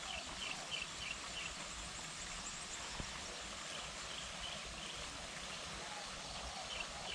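A bird calling in short runs of quick repeated chirps, near the start and again near the end, over a steady outdoor hiss.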